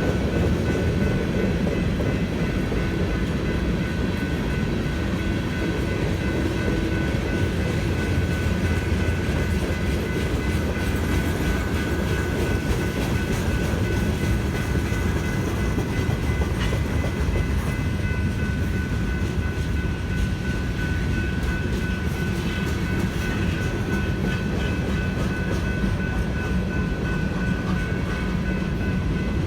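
Freight train cars rolling steadily through a grade crossing, with a continuous low rumble and wheel clatter. Over it runs the crossing's electronic bell, ringing continuously as a thin high tone.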